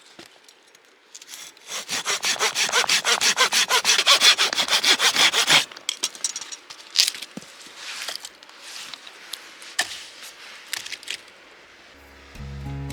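Hand saw cutting through firewood in quick, even strokes for about four seconds, then scattered snaps and knocks of wood.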